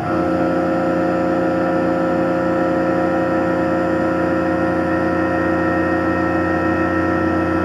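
Tormach PCNC 1100 CNC mill milling MIC6 cast aluminium plate: a steady, many-toned machining whine that steps up suddenly right at the start and then holds evenly.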